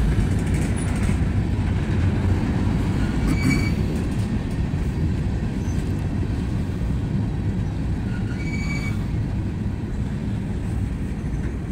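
Freight train cars rolling slowly past: a steady low rumble of wheels on the rails, with a couple of short, faint high squeals from the wheels. The train is slowing almost to a stop.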